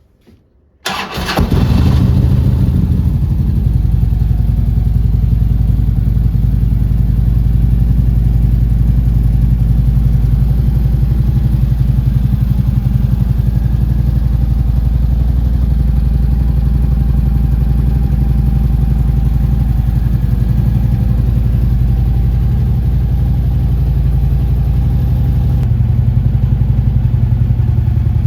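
2011 Harley-Davidson Ultra Limited's Twin Cam 103 V-twin being started about a second in, catching at once, then idling steadily.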